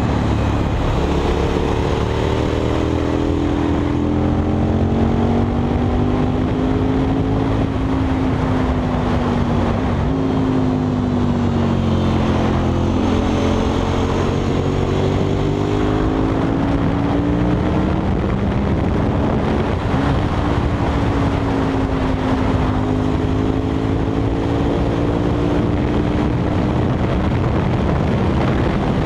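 KTM 990 SMR supermoto's V-twin engine with a Leo Vince exhaust, ridden hard. Its pitch rises and falls through acceleration, gear changes and corners, with dips about ten and twenty seconds in, over steady wind and road rush.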